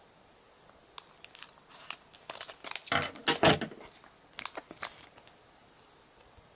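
Foil trading-card booster pack being torn open and crinkled: a string of short rips and rustles lasting about four seconds.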